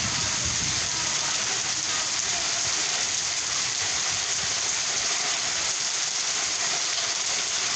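Rain from a kalbaishakhi (nor'wester) storm falling steadily, an even hiss with no breaks.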